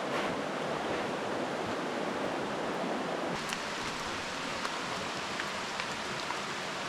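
Steady rushing of a small rainforest creek and waterfall, a little thinner in tone from about halfway through, with a few faint ticks over it.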